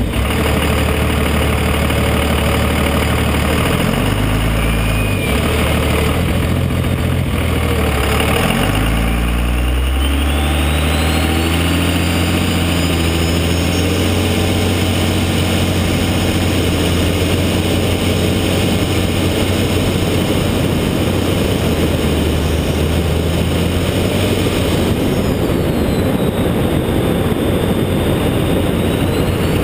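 Cummins turbo-diesel truck engine with a 64 mm D-tech turbo, running steadily; its note rises and falls a few times about four to ten seconds in, and a high whistle, typical of the turbo, climbs in pitch around ten seconds in before the engine settles into a rougher, fuller sound.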